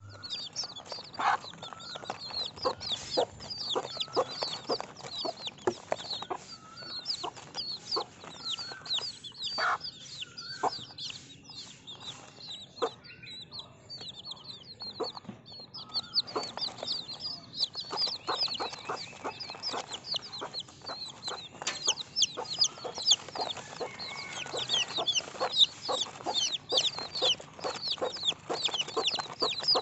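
Baby chicks peeping continuously: a dense stream of short, high, downward-sliding cheeps, with occasional lower calls among them.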